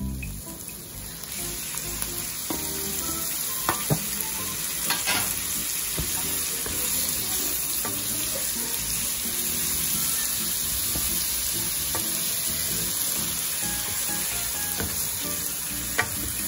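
Chopped onion, garlic and raw diced chicken sizzling in hot oil in a wok, stirred with a wooden spatula. There is a steady frying hiss with a few sharp knocks of the spatula against the pan.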